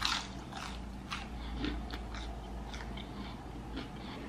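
Close-miked chewing of a mouthful of KFC Crunchy chicken burger, with short wet mouth clicks about every half second, the loudest right at the start.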